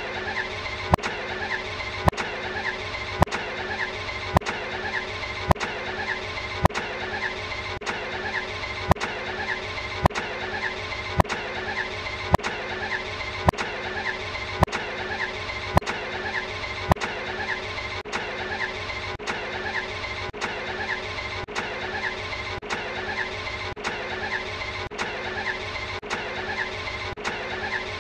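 Ferrari Enzo V12 engine sound: a steady stretch of about a second, looped over and over, with a sharp click at each seam about once a second.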